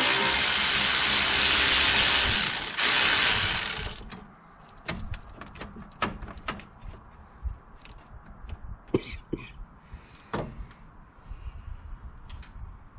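A handheld power tool spinning, broken by a short pause, then stopping about four seconds in as it backs out the screws at the top of the fan shroud. After it come scattered light clicks and knocks.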